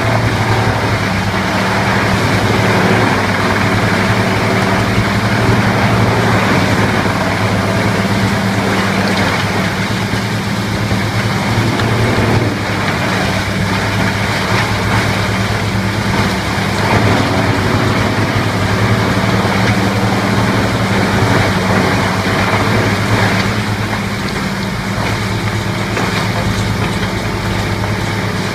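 A large engine-driven machine running steadily with a constant deep hum and a broad mechanical noise over it, with slight rises and dips in loudness but no distinct impacts.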